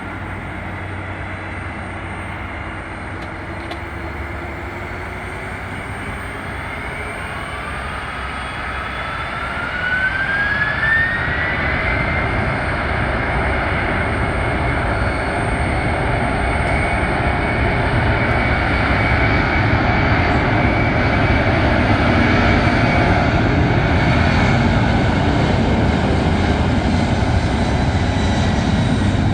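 Jet engines of a McDonnell Douglas MD-11F freighter spooling up for takeoff. A whine climbs in pitch about eight to twelve seconds in, and the engine noise grows louder and louder through the rest.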